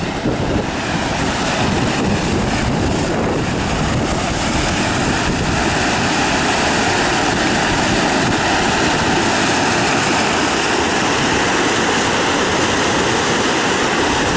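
A river running high and fast after heavy rain, its water rushing with a steady, loud noise.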